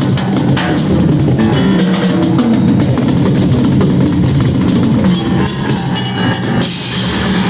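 Rock band playing live at full volume, with a driving drum kit and guitar.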